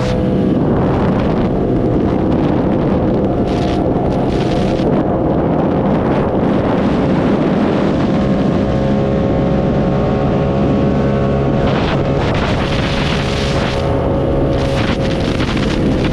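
R7 motorcycle's engine running at a steady cruising speed under wind rushing over the microphone. The wind gusts louder a few times in the second half.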